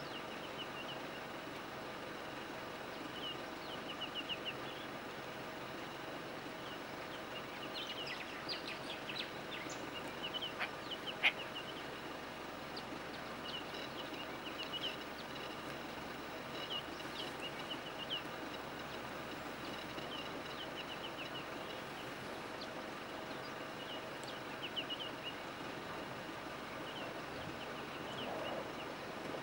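Small birds chirping: short, rapid twittering calls recurring every second or two over a steady background hiss.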